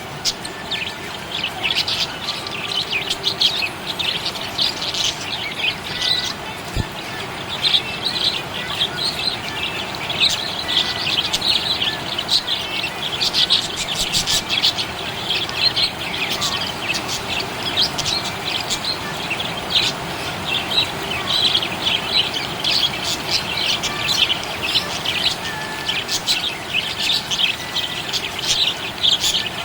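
Budgerigars chirping: a steady stream of quick, high chirps.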